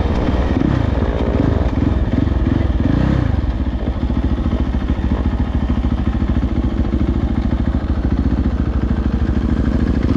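Dirt bike engine running under way, its pitch rising and falling over the first few seconds, then holding steady.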